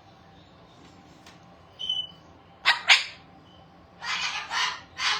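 Pet parrots squawking: a faint short call about two seconds in, two sharp, loud screeches just under three seconds in, then a run of harsh, raspy squawks about half a second apart from about four seconds on.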